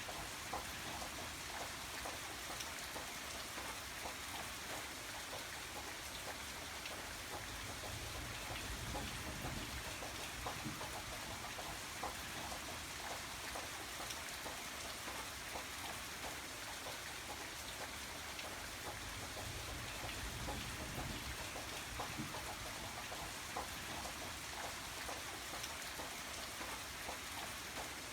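Steady rain with many separate drops ticking on a surface.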